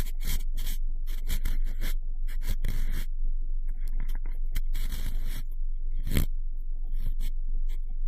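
Cotton swab swirling and rubbing inside the ear of a binaural microphone: a run of short, irregular, close-up scratchy scrapes.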